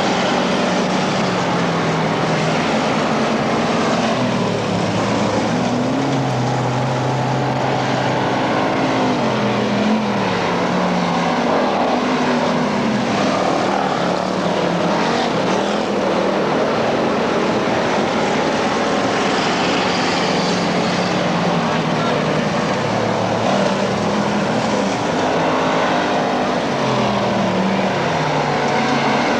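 Several dirt-track race car engines running hard together, their pitch repeatedly rising and falling as the cars accelerate and back off.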